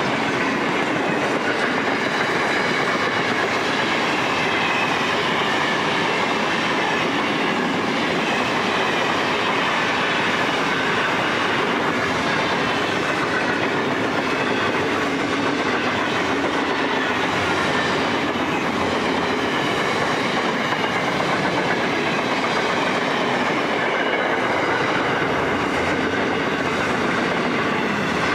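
A freight train's mostly empty container flat wagons and cement hoppers rolling past close by, giving a steady, loud rolling rattle of wheels on rail. Faint high tones drift slowly up and down in pitch above the rolling noise.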